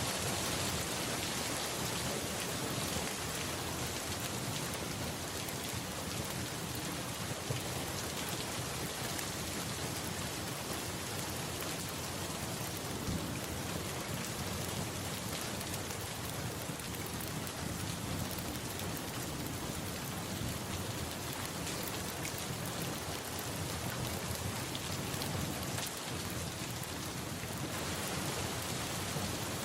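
Steady rain falling, an even dense hiss with fine ticks of drops and a couple of sharper clicks.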